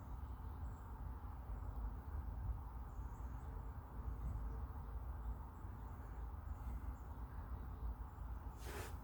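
Near-quiet background during an air brake leak test, with no air leak to be heard: a low steady rumble, a few faint high chirps, and a short hiss near the end.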